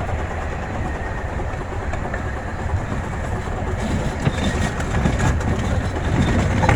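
Small steam train's cars rolling along the track with a steady rumble and rattle. Light clicks and knocks from the wheels and couplings grow louder in the second half.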